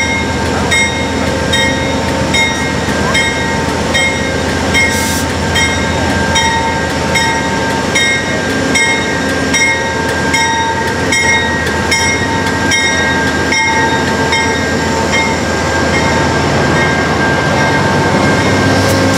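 Diesel train at a station platform, its locomotive engine running steadily while a locomotive bell rings with even strokes about twice a second.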